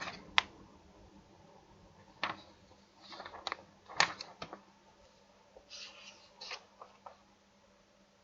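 Computer keyboard keys and mouse buttons clicking: a dozen or so sharp, separate clicks at irregular spacing, loudest near the start and about four seconds in, over a faint steady hum.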